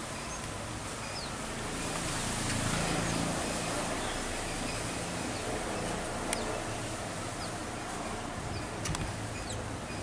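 A few faint, short, falling chirps from small birds over a steady hiss, with a sharp click a little after six seconds.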